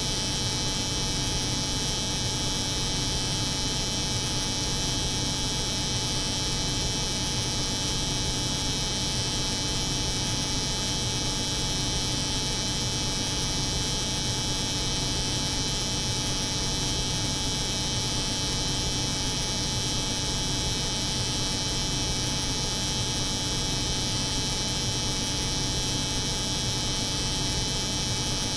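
Steady layered drone of a cold room's refrigeration unit humming together with an electric hair clipper buzzing, unchanging throughout.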